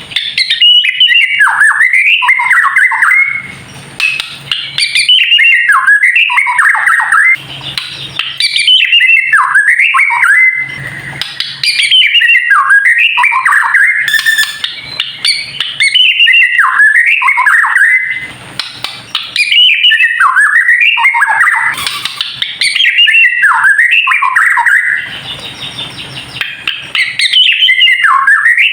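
White-rumped shama (murai batu) singing its fast 'kretekan' song: loud phrases of quick rising and falling whistles and chatter, each two to three seconds long, repeated with short pauses between. This is the kind of song shama keepers play to provoke a bird into singing.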